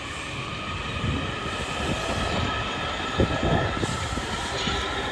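Amtrak passenger train rolling away over curved track: steady rumble of the cars on the rails, with several held high squealing tones from the wheels and irregular low knocks.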